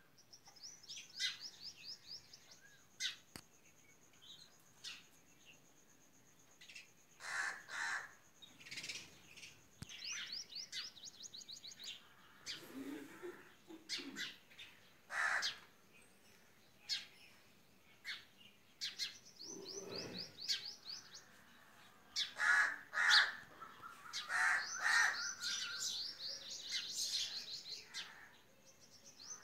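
Small birds chirping and singing: quick runs of high, repeated chirps and scattered louder calls, busiest in the second half.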